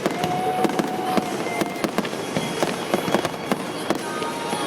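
Fireworks display: a rapid, irregular run of sharp bangs and crackling pops over a steady wash of noise.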